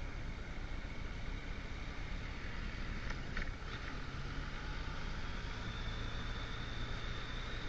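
Motorcycle running at a steady cruise, its engine hum under a steady rush of wind noise; the engine note holds one steady pitch from about halfway on.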